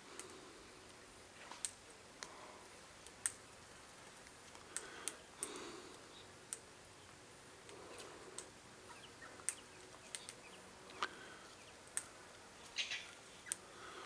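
Birds feeding at a feeder: faint, irregular sharp clicks, about one a second, with a few soft, short low calls.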